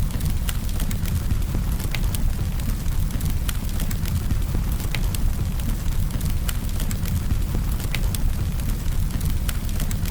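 Campfire burning: sharp crackles and pops of burning wood every second or so over a steady low rumble of the flames.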